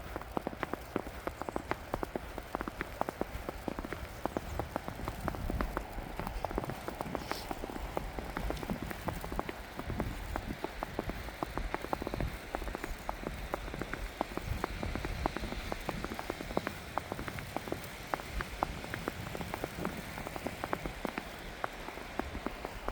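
Rain falling steadily, a dense, irregular run of small drop impacts over a soft hiss.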